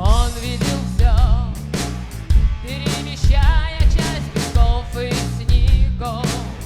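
Rock band playing live: drums and bass keep a steady beat with a heavy hit about once a second, under a wavering lead melody with vibrato.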